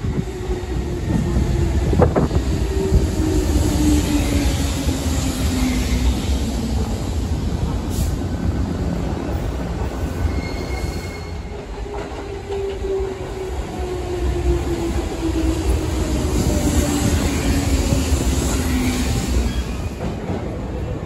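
Sanyo Electric Railway local electric train pulling into a station and braking, with steady rail and wheel rumble. Its motor whine falls in pitch twice as it slows, and a hiss of brakes and wheels rises near the end.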